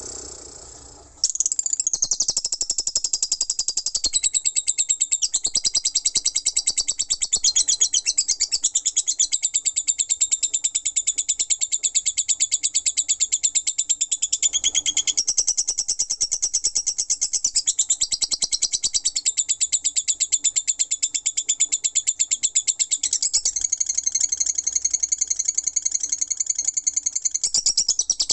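Lovebird singing its long 'ngekek' chatter: a fast, unbroken run of high-pitched chirps that starts about a second in and keeps going without a pause.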